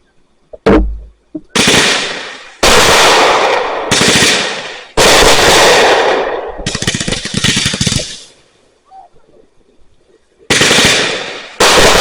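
Consumer fireworks going off: a sharp thump about half a second in, then a run of loud bangs that each fade over about a second, with crackling about seven seconds in. After a short lull, two more bangs near the end.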